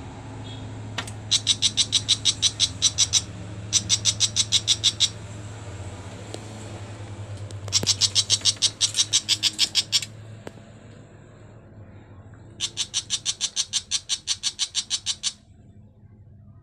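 A bird calling in harsh, rapid chattering runs of about seven notes a second, in four bouts of one to three seconds each, over a steady low hum.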